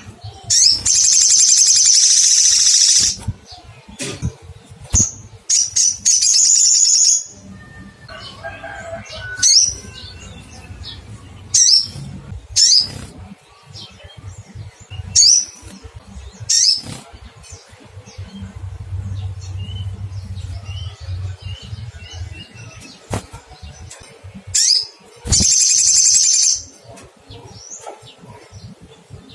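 Olive-backed sunbird calling: short, sharp, high chirps scattered throughout, and three loud, rapid, very high trills, one near the start, one about six seconds in, and one near the end.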